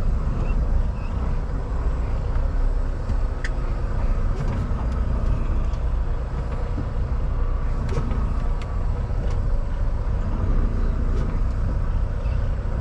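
Semi-truck's diesel engine running at low speed as the rig is slowly maneuvered into a parking space, a steady low rumble with a few faint clicks.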